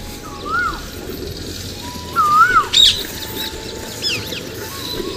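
Birds calling: a few whistled calls that rise and fall in pitch, the loudest about two seconds in, mixed with short, sharp higher chirps.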